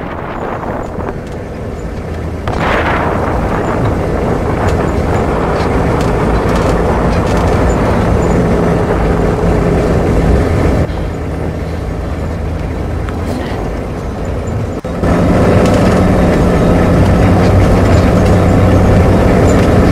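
An SUV's engine running, a steady low hum with a rushing noise over it. The sound jumps abruptly in level and tone a few times, growing loudest over the last few seconds.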